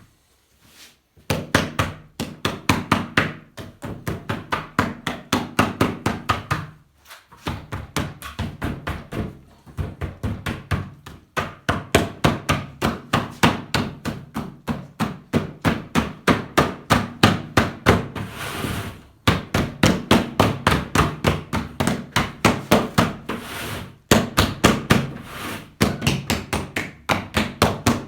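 Paddle beating clay in the paddle-and-anvil method, a quick even slapping of about four to five strikes a second. It comes in long runs, broken by brief pauses of a second or so.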